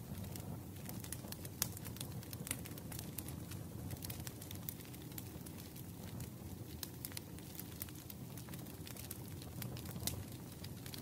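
Wood fire crackling in a fireplace: a steady low rumble of flames with irregular sharp pops and snaps, two louder pops in the first few seconds and another near the end.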